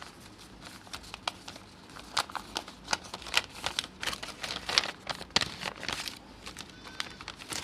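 Packaging crinkling and rustling in the hands as a small parcel is unwrapped, with many irregular sharp crackles.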